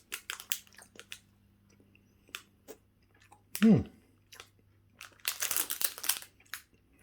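Food packaging crinkling and rustling in handling, with scattered small clicks and a longer, louder rustle about five seconds in. A short falling vocal sound is heard near the middle.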